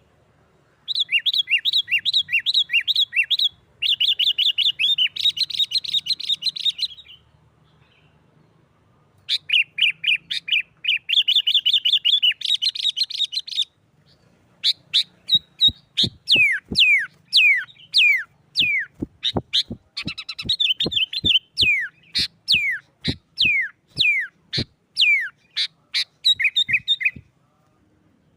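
Sooty-headed bulbul singing excitedly in the aggressive 'nggaruda' style: bursts of fast, repeated chattering notes, then from about halfway a run of separate falling whistled notes about two a second, and more fast chattering near the end.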